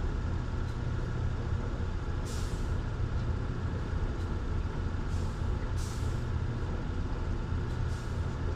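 Steady low mechanical rumble, with brief hissing swishes every few seconds.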